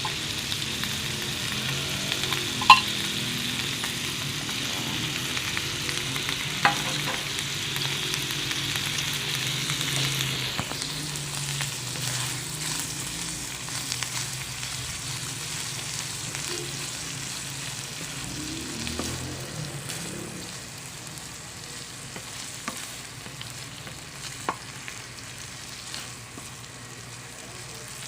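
Corned beef and onions sizzling in a frying pan while being stirred, with sharp clicks of the utensil against the pan, the loudest about three seconds in. The sizzle eases after about ten seconds.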